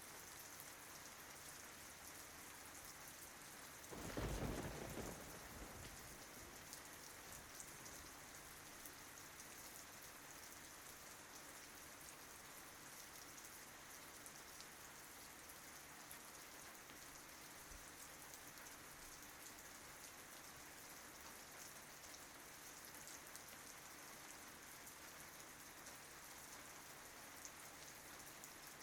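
Faint, steady rain falling, with one brief low rumble of thunder about four seconds in that fades within a couple of seconds.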